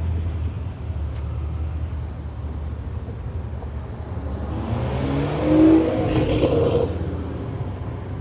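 A turbocharged car engine rumbling low, then revving and accelerating about five seconds in, its pitch rising, with the turbo spooling up audibly.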